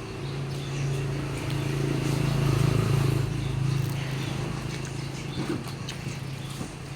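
A motor vehicle's engine hum that swells to its loudest two to three seconds in and then fades, as if driving past, with scattered small clicks over it.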